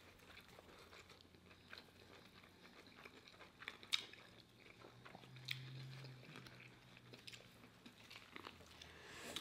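Faint chewing and biting into fast-food sandwiches: a fried fish sandwich on a soft bun and a burger, with scattered small mouth clicks, a sharper one about four seconds in.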